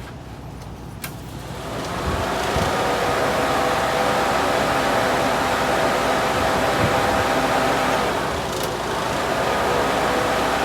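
An electric motor clicks on and spins up over about a second to a steady whir with a hum of several held tones, dipping briefly near the end.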